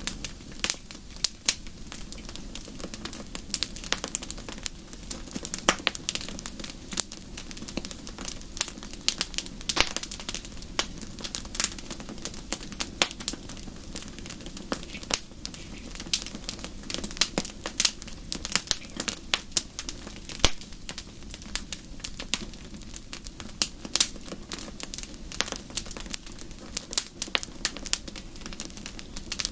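Wood fire in a fireplace crackling: frequent irregular sharp pops and snaps, several a second, over a steady low rushing of the flames.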